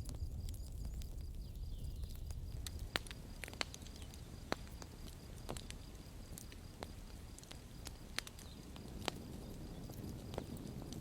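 Campfire burning: irregular sharp crackles and pops of burning wood over a low, steady rumble of flames.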